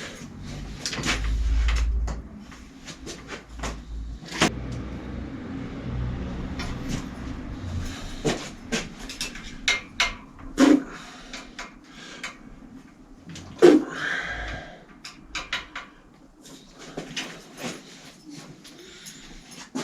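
Irregular clicks, knocks and thuds of objects being handled, with a short low rumble about a second in.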